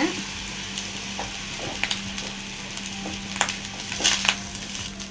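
Egg fried rice sizzling in a wide steel pan as it is stirred and turned over with a spatula, a steady frying hiss with scattered scrapes and clicks of the spatula against the pan.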